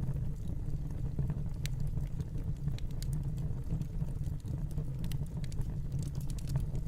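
Fireplace fire crackling: scattered sharp pops and snaps over a steady low rumble of flames.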